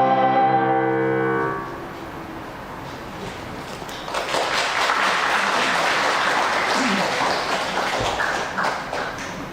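An adult choir's final held chord cuts off about a second and a half in. A few seconds later the audience applauds for about five seconds, and the applause fades near the end.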